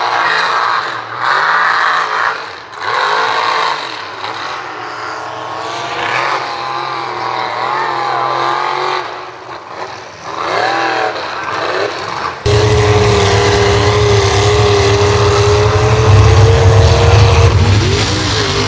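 Mega mud truck engines revving, their pitch rising and falling. About two-thirds of the way through, the sound jumps abruptly to a louder, steady engine note.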